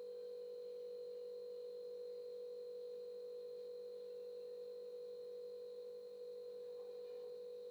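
A steady, unchanging mid-pitched hum with fainter higher tones above it.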